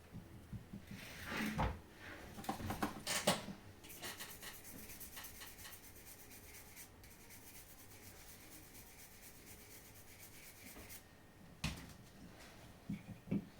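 Small parts and tools being handled during an electronics repair. There is rubbing and scraping with clicks early on, a faint steady high hiss for several seconds, then a few sharp clicks near the end.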